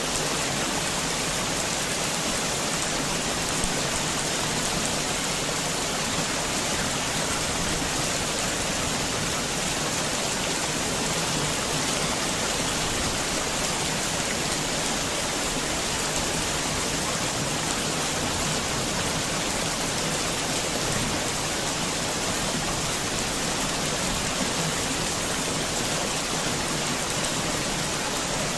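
Heavy rain falling steadily, an even hiss of drops hitting surfaces, with one sharper tap a little under four seconds in.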